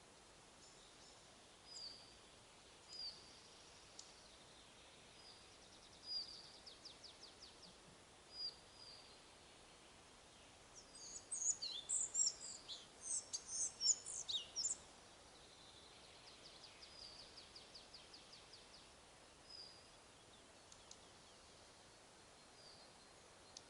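Small songbirds calling in a forest: scattered short high chirps, a couple of fast trills, and a louder flurry of song about halfway through.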